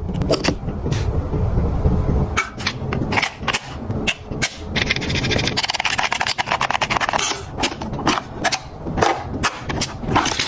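A toy excavator being worked: a low rumble for the first couple of seconds, then a run of sharp clicks and knocks, with a fast rattle in the middle.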